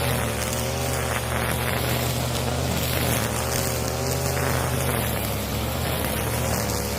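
Husqvarna 541 two-stroke brushcutter running at high speed while cutting grass with its nylon line, the engine note wavering slightly up and down as the load changes.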